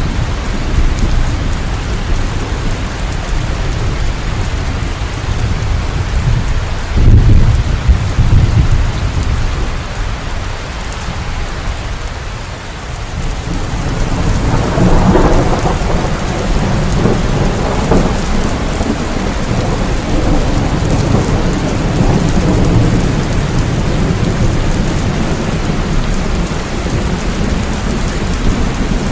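Steady heavy rain with rolling thunder: a loud rumble about seven seconds in and another long roll from about fourteen seconds in.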